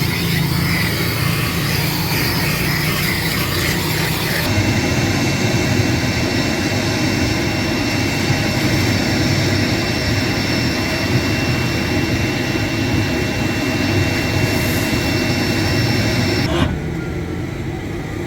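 Car-wash equipment running with a loud, steady machine noise carrying faint high steady tones; the sound changes abruptly about four seconds in and drops in level near the end.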